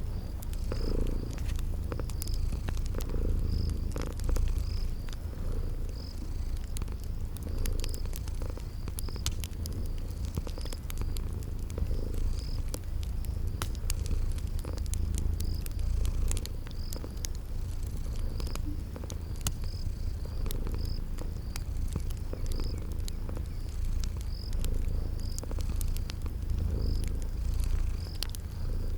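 A domestic cat purring in a steady low rumble that swells and eases with each breath. Over it a wood fire crackles in many small sharp pops, and a cricket chirps roughly once a second.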